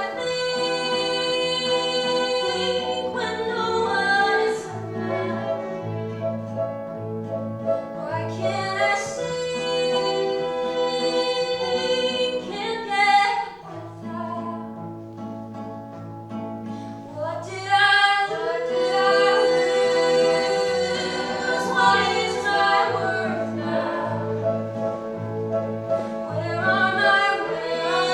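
Music: sung vocals, choir-like voices in harmony over a low sustained accompaniment, with sustained held notes and a brief softer passage about halfway through before it swells again.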